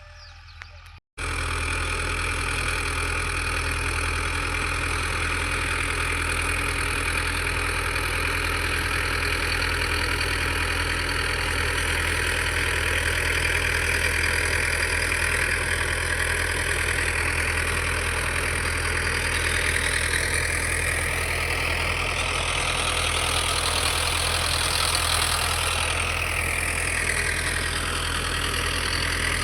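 Tractor's diesel engine running steadily under load, pulling a rotary cutter (rotavator) through the field soil. It is loud from about a second in, with slow shifts in pitch in the upper range near the end.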